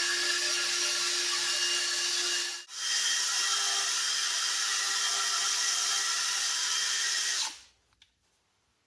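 A handheld electric power tool, drill-like, running steadily with a motor whine. It cuts out briefly about two and a half seconds in, then runs again at a slightly higher pitch and stops shortly before the end.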